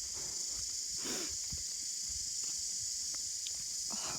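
Steady, high-pitched drone of an insect chorus, with a faint short sound about a second in.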